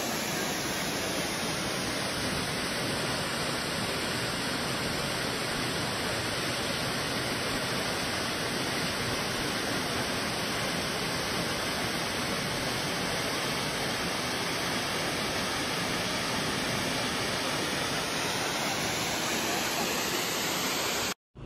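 Steady rushing noise, like a waterfall or heavy rain, with a hollow tone in the upper hiss that slowly sweeps down and back up; it cuts off abruptly near the end.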